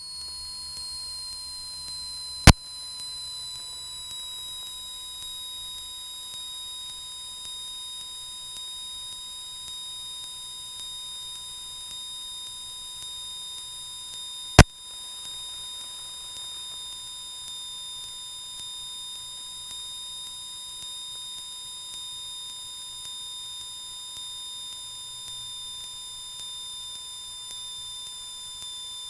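Steady electronic whine from a light aircraft's cockpit audio feed: a high tone that slowly sinks in pitch over the first several seconds over a steady lower tone, broken by two sharp clicks, one a couple of seconds in and one about halfway.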